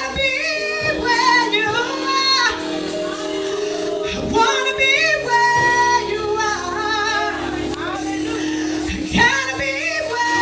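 Music with a woman singing lead, her held notes wavering with vibrato over steady sustained accompaniment.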